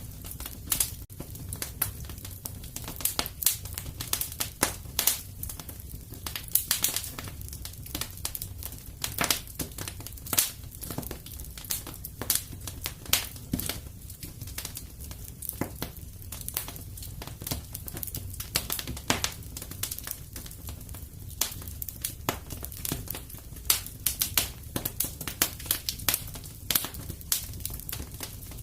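Wood fire in a fireplace crackling and popping, with frequent irregular sharp snaps over a steady low rumble of the flames.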